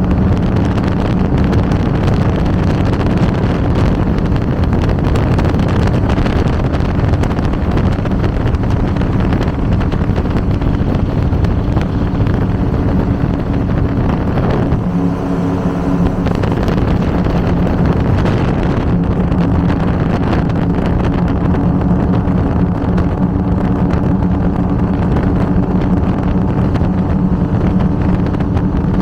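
Twin V8 engines of an Avanti 33 powerboat running steadily under way, with a steady engine drone over wind and water rush. The engine note wavers briefly about halfway through.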